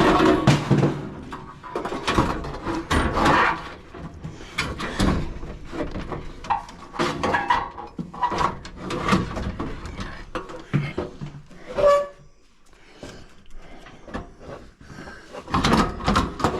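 Irregular knocks, clicks and scrapes of parts or tools being handled, quieter for a few seconds near the end.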